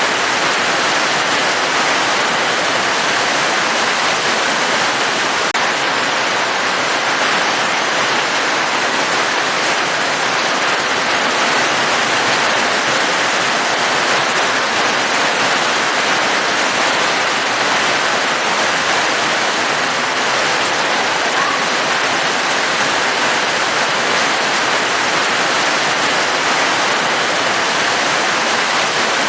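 Steady rain, a dense and even hiss with no breaks and no separate drops standing out.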